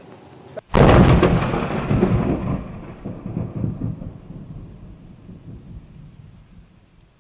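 Thunderclap: a sudden loud crack just under a second in, then a low rolling rumble that fades away over the next several seconds.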